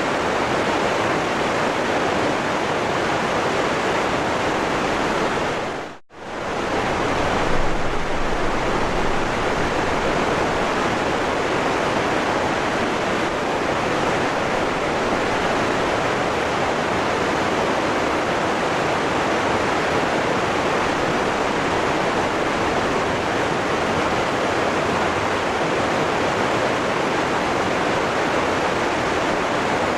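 Waterfall rushing steadily, a dense even roar of falling water. About six seconds in the sound dips sharply almost to silence for a moment and then comes straight back.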